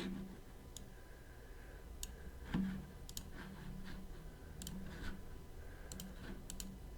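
Faint, scattered clicks from a computer mouse and keys being worked, about a dozen spaced irregularly over a low steady hum, with one soft knock a little after two and a half seconds.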